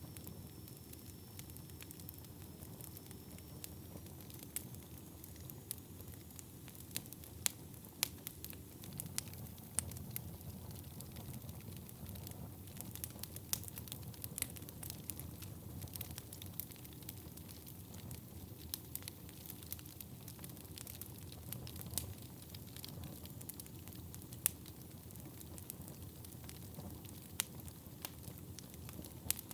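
Wood fire burning in a fireplace: a steady low rumble of flames with frequent irregular crackles and occasional sharper pops.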